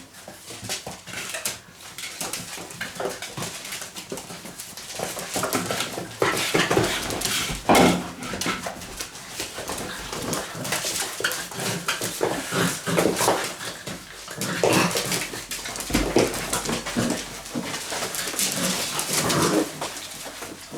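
Six-week-old Labrador puppies play-fighting, with a jumble of short whines and yaps.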